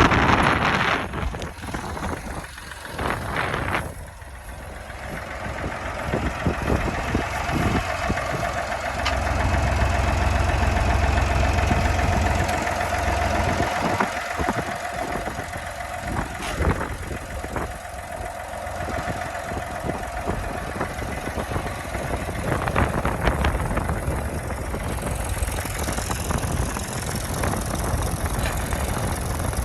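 Massey Ferguson tractor engine running, with a heavier, louder low rumble from about nine to thirteen seconds in before settling back.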